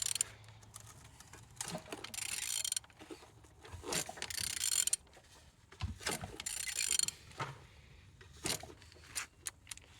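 Used car engine, out of the vehicle, being turned over by hand: strokes of mechanical clicking and scraping roughly every two seconds as the crankshaft is rotated, the engine turning freely rather than seized.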